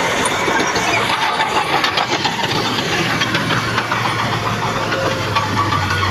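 Heavy diesel earthmoving machinery running, with a dense metallic clatter throughout and a steady low engine hum that strengthens near the end.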